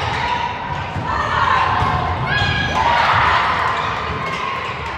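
Basketball being dribbled on a gym court, repeated thuds of the ball under the chatter of spectators in a large hall.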